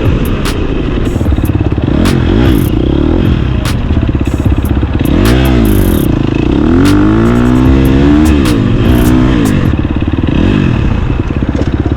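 Dirt bike engine revving as it is ridden, its pitch climbing and dropping several times as it accelerates and backs off, with heavy wind noise on the GoPro microphone.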